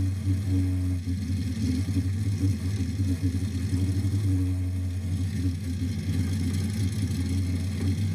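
1967 Plymouth Barracuda drag car's engine idling at a steady speed, its low exhaust note unwavering in pitch.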